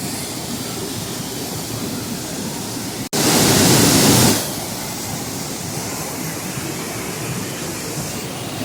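Floodwater rushing steadily in a flash flood torrent. About three seconds in, the sound cuts out for an instant and comes back louder for about a second before settling again.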